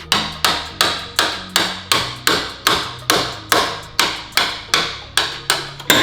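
Hammer striking a steel chisel driven into the car's sheet-metal chassis, about three sharp, ringing blows a second in a steady rhythm. The chisel is cutting off a welded-on engine mount.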